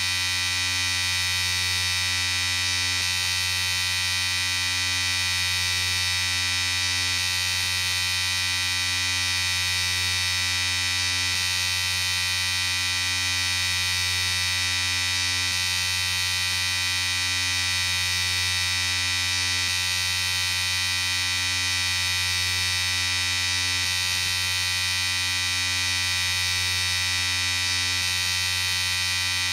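Electric shaver running with a steady buzz, unchanging throughout.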